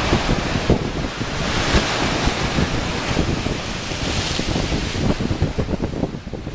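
Ocean waves lapping and washing against shoreline rocks in a continuous rushing hiss that swells and eases twice. Wind buffets the microphone underneath.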